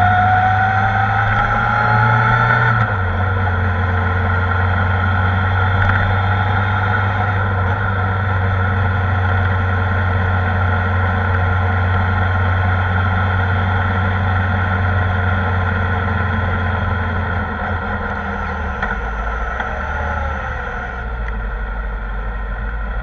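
Kawasaki ZR-7S's air-cooled inline-four engine under way: it rises in pitch as it accelerates, drops suddenly about three seconds in at an upshift, then runs steadily at cruising speed before easing off and falling in pitch near the end.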